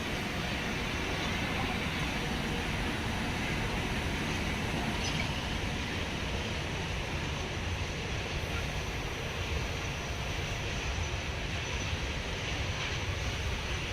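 Steady outdoor background noise: a low rumble with hiss above it, unchanging, with no distinct events.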